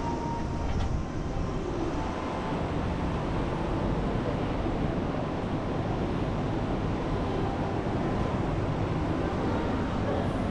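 Steady low rumble with a lighter hiss above it.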